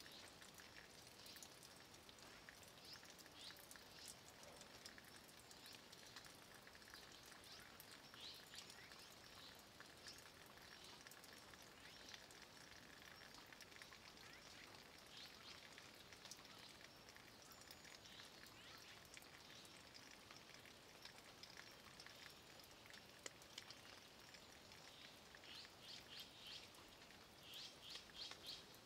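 Faint, steady light rain falling on a stone wall and tree leaves, with scattered drips ticking. Near the end a bird chirps in quick runs.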